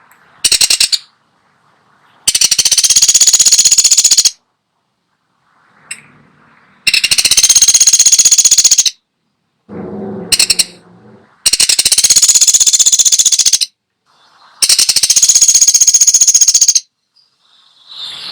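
Pelatuk sampit woodpecker giving loud, rapid rattling calls: four trills of about two seconds each and two short bursts, a few seconds apart. A brief lower-pitched call comes about ten seconds in.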